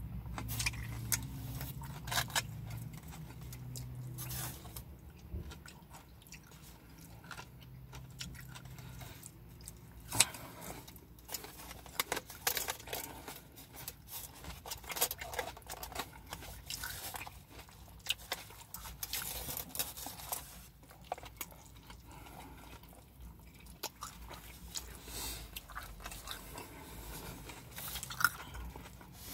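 Close-up chewing and biting of a burger: wet mouth sounds with irregular smacks and clicks.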